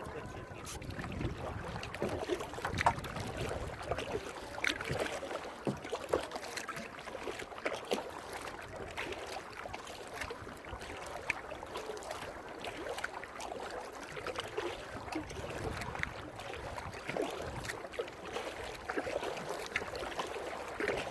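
Kayak paddling: the blade dipping into the water and water dripping and splashing off it in small, irregular trickles, over a steady hiss of light wind and water.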